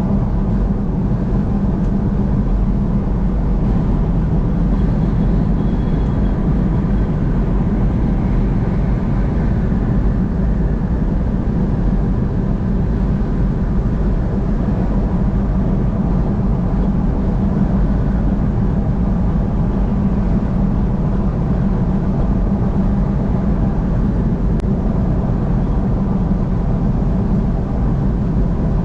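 Steady road noise of a vehicle driving at highway speed, a constant low drone with faint steady tones above it.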